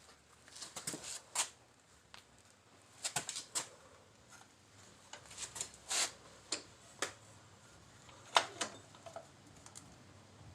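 Scattered metal clicks and knocks of the rear wheel and brake drum being fitted back onto a motorcycle, the loudest knock coming about eight seconds in.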